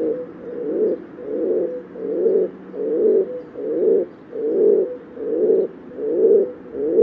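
Rock pigeon cooing: a low coo repeated evenly, about one every 0.8 seconds, nine or ten in a row.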